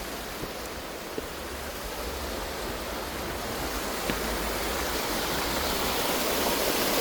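Waterfall rushing steadily, growing louder as it is approached.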